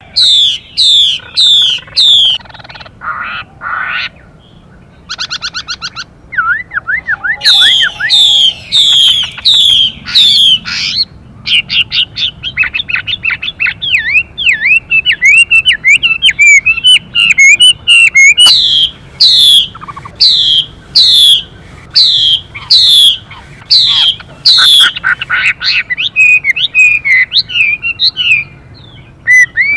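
Chinese hwamei (họa mi) singing loudly: series of repeated downward-sweeping whistled notes and rapid warbled runs. Short harsh, buzzy calls are mixed in, which the title gives as the female's 'xùy' calls that stir the male to sing.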